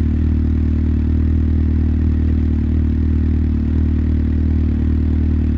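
Motorcycle engine idling steadily at an unchanging pitch.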